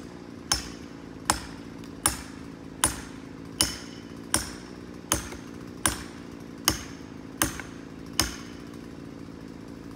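Eleven evenly spaced, ringing blows, about four every three seconds, struck at a partly cut tree to bring it down, stopping about eight seconds in. A chainsaw idles steadily underneath.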